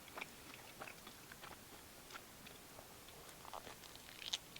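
Faint chewing of grilled pork chop: scattered soft mouth clicks and small wet smacks, with a slightly sharper click near the end.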